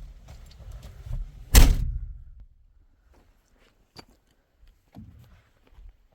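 One loud thump about one and a half seconds in, with a short low tail dying away, then a few faint clicks.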